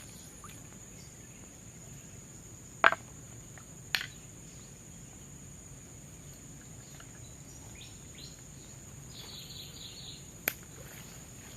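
Steady high-pitched drone of forest insects, with scattered faint short chirps. Three sharp clicks cut through it, the loudest about three seconds in, the others about four seconds in and near the end.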